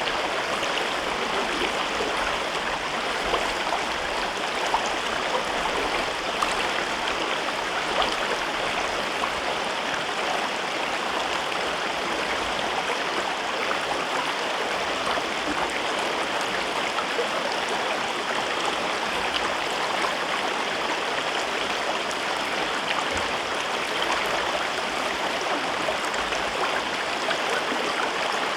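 Mountain river flowing over rocks in a gorge: a steady, even rush of water with small splashes.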